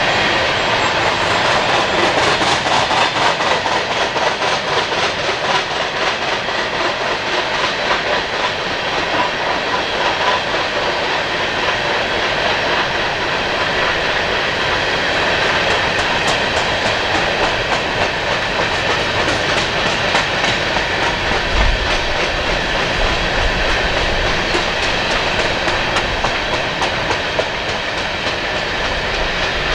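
A coal train's hopper cars rolling past close by: a steady loud rumble of steel wheels on rail with a rapid, uneven clicking from the wheel sets, and a few heavier low thumps after the middle.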